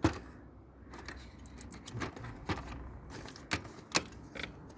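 Small metal parts and screws of a video player clinking and knocking as they are handled and taken apart: irregular sharp clicks, the loudest at the very start and just before the end.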